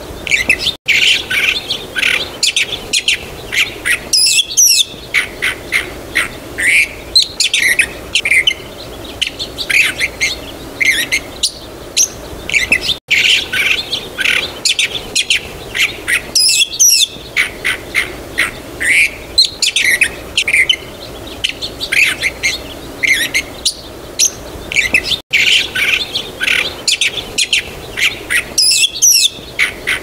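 Birds chirping and calling: a busy run of short, high chirps and trills. The same stretch of birdsong repeats about every twelve seconds, with a brief dropout at each repeat.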